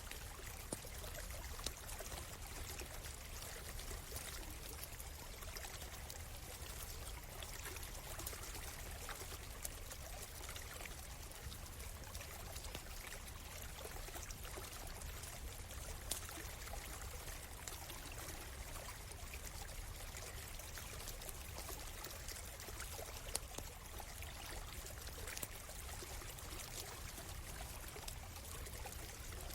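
A stream flowing steadily, with a campfire's burning wood crackling in scattered sharp pops, a few of them louder.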